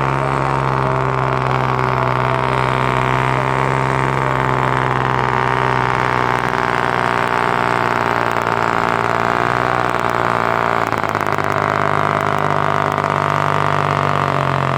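Valmet 505 tractor's diesel engine running hard and steady at full throttle while pulling the weight-transfer sled. Its note changes about eleven seconds in.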